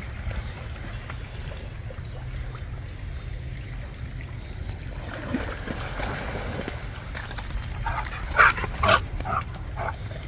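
A Rottweiler gives a few short barks and yips near the end, the two loudest close together, over a steady low rumble.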